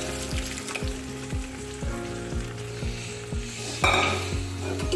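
Cooked arhar dal poured into hot oil and fried onions in a kadhai, sizzling steadily, with a brief louder clatter of metal near the end.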